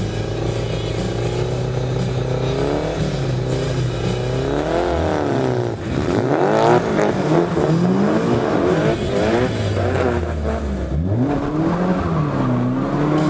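Car engine heard from inside the cabin. It is revved in short blips while the car waits to start, then climbs hard as the car pulls away about five seconds in. It rises and falls through gear changes, dropping near the end before pulling again.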